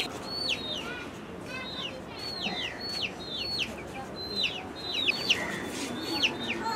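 Birds chirping: many short high chirps, each sliding quickly downward, repeating several times a second over a low background hum of the yard.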